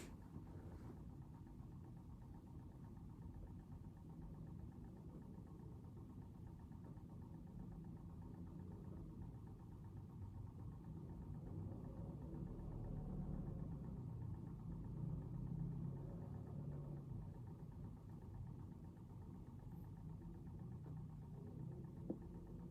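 A steady low rumble of background noise that swells slightly in the middle, with one faint click near the end.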